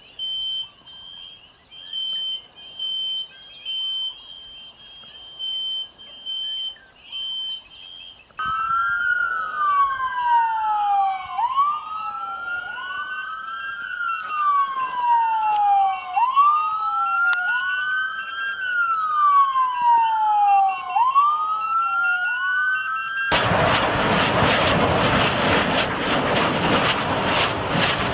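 A high beeping, about two pulses a second, is joined after about eight seconds by a siren wailing up and down: each cycle rises quickly and falls more slowly, every two to three seconds. Near the end a loud rushing noise suddenly takes over and covers the siren.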